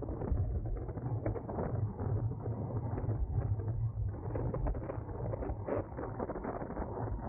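Wind rushing over the microphone of a camera riding on a racing bicycle at speed, with a steady stream of small rattles and clicks from the bike over the road.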